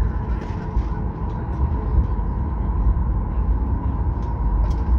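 Cabin noise inside a Boeing 737 MAX-8 rolling on the ground after landing: a steady low rumble from the wheels and airframe, with the CFM LEAP-1B engines' steady whine at idle.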